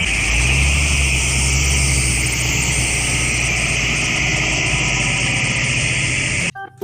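Excavator engine idling steadily with a low hum, cutting off abruptly near the end.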